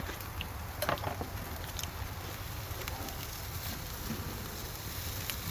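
Steak sizzling as it cooks, with a few light clicks about a second in.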